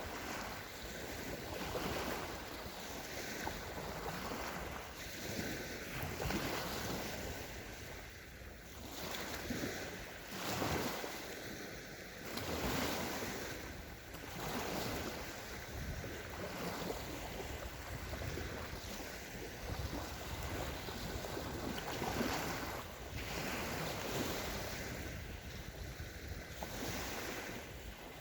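Small waves of the Sea of Azov breaking and washing up a sandy beach, one after another every couple of seconds.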